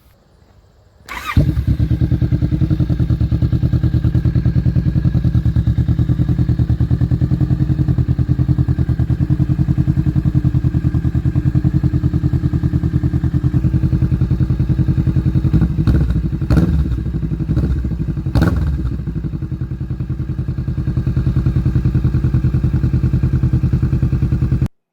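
2019 Kawasaki Vulcan S's 649 cc parallel-twin engine running through a 21-inch (550 mm) Delkevic aftermarket exhaust. It comes in suddenly about a second in and runs steadily, is blipped a couple of times about two-thirds through, and cuts off suddenly near the end.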